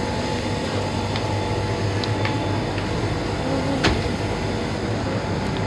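Steady hum and hiss of a supermarket's background machinery, with a sharp click about four seconds in.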